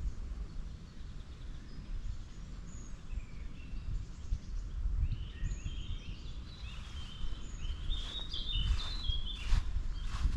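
Songbirds calling outdoors: scattered chirps, then a run of quick descending trills in the second half. Under them is a steady low rumble, with a few evenly spaced footsteps near the end.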